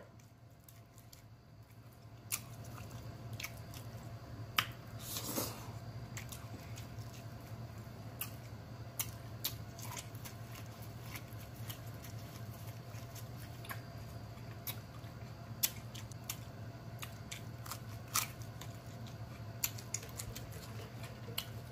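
A person chewing and biting into food, including an ear of corn on the cob, with many small scattered mouth clicks and smacks over a faint steady low hum.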